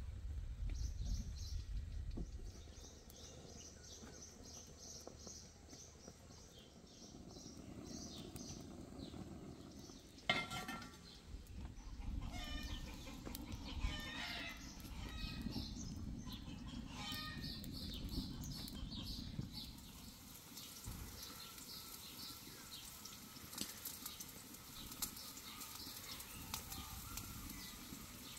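Birds calling: a run of quick high chirps over the first few seconds, then louder calls through the middle.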